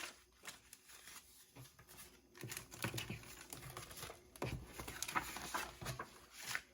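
Paper and plastic packaging from a model kit box rustling and crinkling as it is handled, with small irregular crackles, busiest in the second half.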